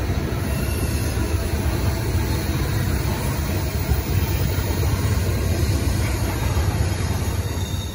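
Double-stack intermodal freight cars rolling past, a steady low rumble of steel wheels on the rails.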